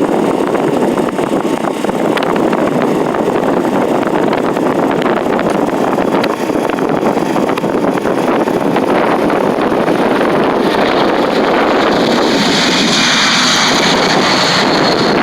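Steady heavy wind rumble on the microphone, mixed with a running generator. About ten seconds in, a high jet whine from the C-17's four turbofan engines rises over it, holds loud for a few seconds, then drops away near the end.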